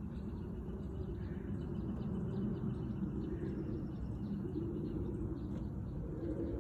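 Squirrel calling: a rapid, steady series of short high chirps, about four a second, over a steady low rumble of background noise.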